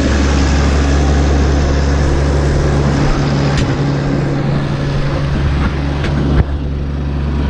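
Tractor engine running steadily with a low, even drone, with one short knock about six seconds in.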